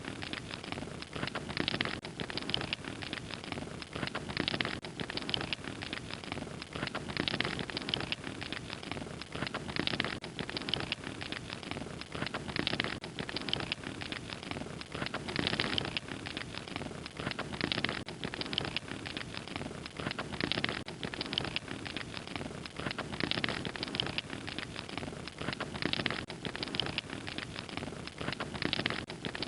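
Wood fire crackling: a dense run of small pops and snaps over a soft hiss, swelling a little louder every second or so.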